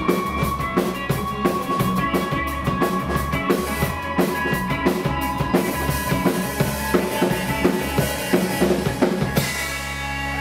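Live rock band playing the closing bars: drum kit driving a fast, steady beat over bass and guitars, breaking off about nine seconds in to a held final chord that rings on.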